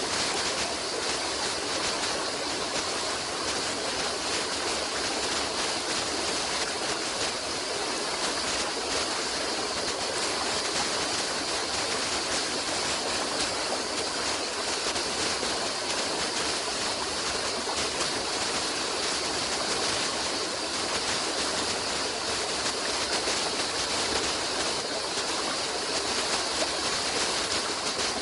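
Running water of a stream, a steady rushing with no break or change.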